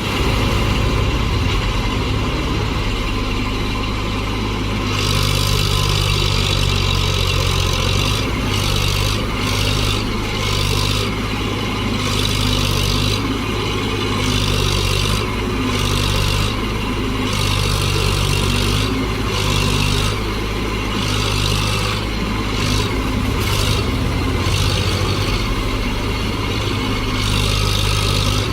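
Tractor diesel engine running under load, its note shifting up and down every few seconds.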